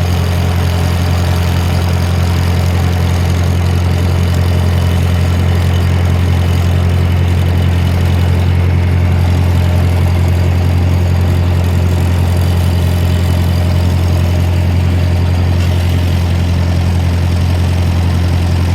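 Ford 620 tractor's four-cylinder engine running steadily at a low, even speed, a loud constant hum with no change in pitch.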